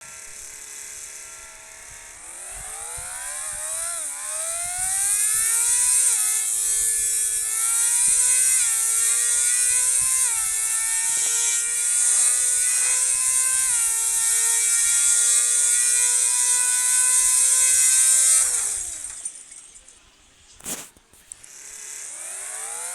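A motor whining and rising in pitch as it speeds up, with several small drops in pitch along the way before it holds steady. It winds down about nineteen seconds in, a single click follows, and then it rises again near the end.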